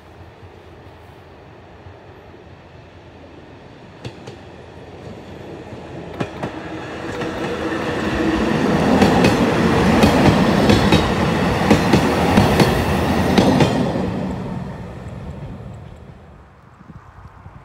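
Vintage diesel railcar train passing at speed: its rumble builds as it approaches, wheels clicking sharply over rail joints as the cars go by from about 9 to 14 seconds in, then fading quickly as it recedes.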